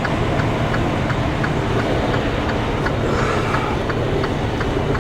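Semi truck's diesel engine running, heard from inside the cab, with a regular light ticking about three times a second and a short hiss a little past the middle.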